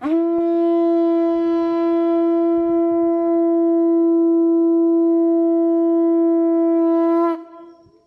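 Conch shell trumpet blown in one long, steady note, held for about seven seconds and then cut off with a slight upward bend. It is the call that marks the start of a Maya cacao ritual.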